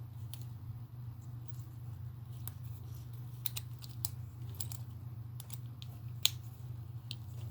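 Small screwdriver driving a screw into a plastic RC car part: irregular light clicks and ticks of metal on plastic, with one sharper click about six seconds in, over a steady low hum.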